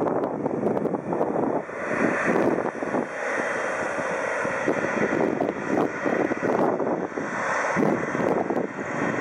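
Jet engines of a Boeing 777-300 airliner running: a loud, steady rumbling roar that swells and dips in level.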